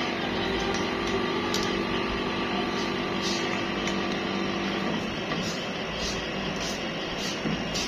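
A motor-driven machine humming steadily, its hum fading about five seconds in, with a faint regular ticking about twice a second in the second half.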